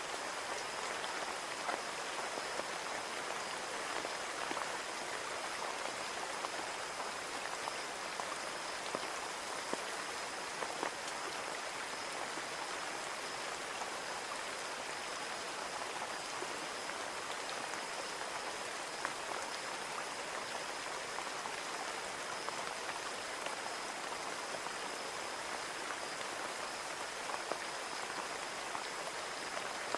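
Steady rain falling on a window, a continuous patter with many small individual drop ticks and a faint steady high whine behind it.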